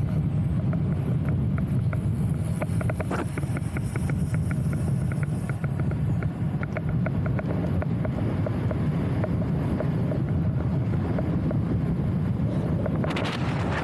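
Wind buffeting the microphone: a steady low rumble, with a run of quick, evenly spaced light ticks through the middle and a brief rushing hiss near the end.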